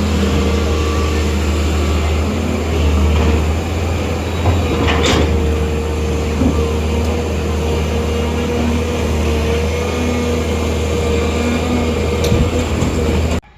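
Heavy machine engine running steadily, a low drone with a steady whine above it and a couple of brief clicks, cutting off abruptly near the end.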